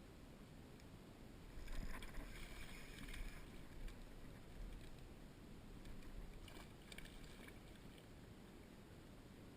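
Faint water and handling noises around a small fishing boat, with a louder flurry of crackling and knocking from about two seconds in.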